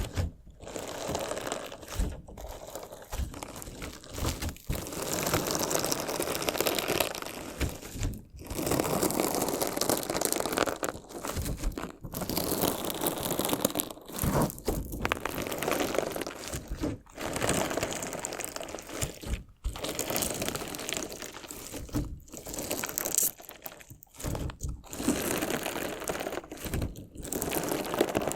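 Crunchy slime being worked by hand, crackling and crunching in spells of a second or a few seconds, separated by short pauses.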